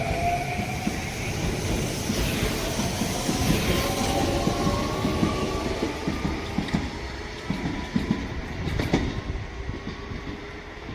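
Sanyo Electric Railway train running by: the electric motors whine, rising in pitch, then the wheels clack over rail joints as it draws away and fades.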